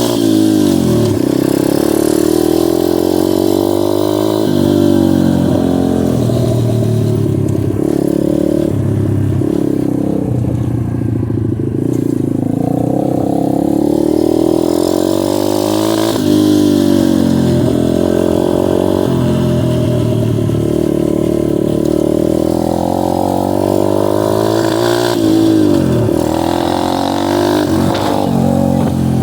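Dirt bike engine running under load while riding a trail. The revs keep rising and falling with the throttle, and several times drop sharply and climb again as the bike shifts or eases off.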